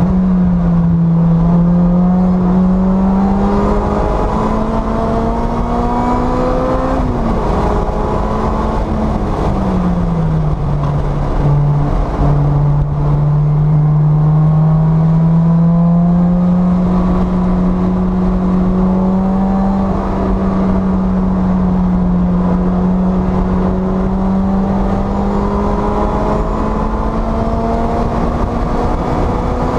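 The supercharged 1.8-litre four-cylinder engine of a 2010 Lotus Exige S260 running hard on track, heard from inside the car over tyre and wind noise. Its pitch rises, drops steeply about seven to eleven seconds in as the car slows for a corner, then climbs steadily back toward about 7,000 rpm near the end.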